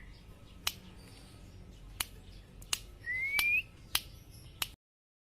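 A songbird's single short rising whistle among a few sharp clicks, then the sound cuts off suddenly.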